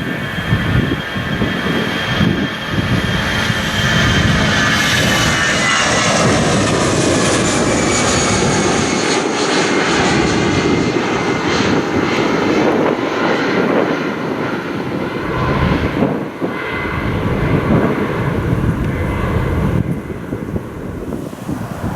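Jet airliner departing close by, its engines at takeoff power. A loud steady roar carries a high fan whine that slides down in pitch as the aircraft passes.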